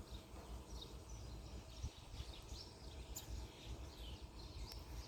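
Small birds chirping, many short high chirps in quick succession, faint over a low rumble.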